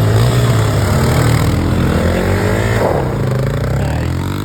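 Off-road vehicle engine running loud, its pitch rising and falling as the throttle is worked, then easing off near the end.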